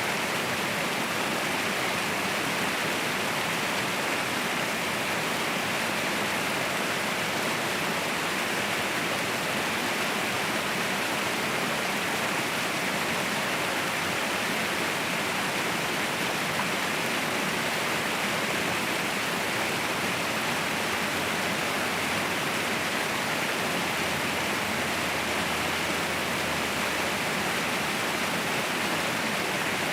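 Waterfall rushing, a steady even roar of falling water without pause or change.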